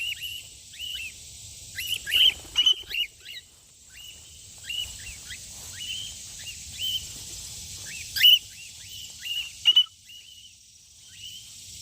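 Cockatiels calling back and forth with short, repeated chirping contact calls, about one or two a second, a few louder ones near the end, over a steady high hiss.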